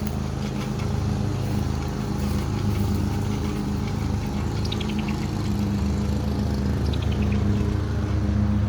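Steady low motor hum, like an idling engine, with a bird giving two short runs of quick, high, falling chirps about five and seven seconds in.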